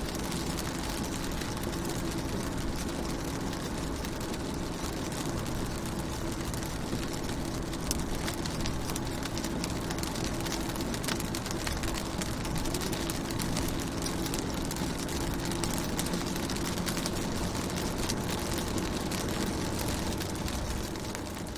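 Rain falling on a car's windows and body: a steady hiss dotted with many small drop ticks, heard from inside the car, with a low steady hum underneath.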